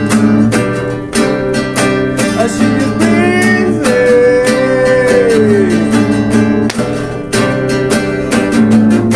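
Acoustic guitar strummed steadily, with a voice singing a gliding melody over it.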